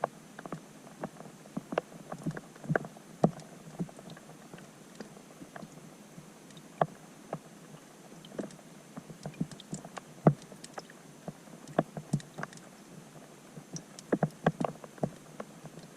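Rain falling on a pond, heard through an underwater GoPro's housing: irregular plinks and ticks of drops hitting the water, a few a second and bunching near the end, over a faint steady hiss.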